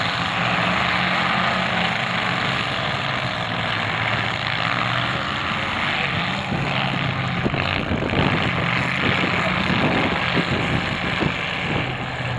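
Demolition derby cars' engines running and revving together in the arena, a dense, steady engine noise, with a few sharp knocks about halfway through.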